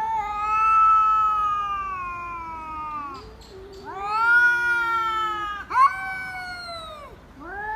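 A cat yowling: three long, drawn-out meows, each lasting one and a half to three seconds and falling in pitch as it ends.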